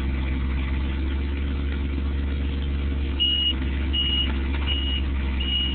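Excavator engine running steadily while the machine works to push the tree over. From about three seconds in, a high warning alarm beeps repeatedly, roughly once every three-quarters of a second.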